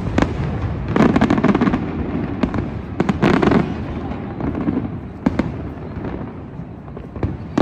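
Fireworks display going off in a rapid run of bangs and pops. Dense crackling clusters come about a second in and again about three seconds in, with a single sharp bang a little after five seconds.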